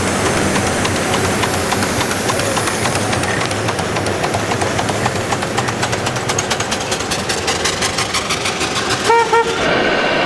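Scale RC model truck running its sound module: a steady rush of noise under a clicking engine rhythm that speeds up from about three seconds in, then two short horn toots near the end.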